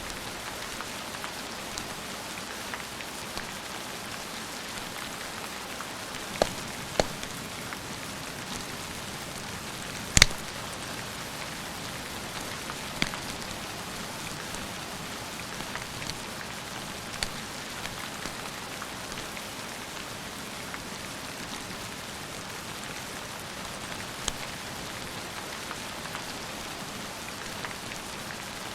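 Steady rain falling, an even hiss, with a few sharp isolated ticks scattered through it, the loudest about ten seconds in.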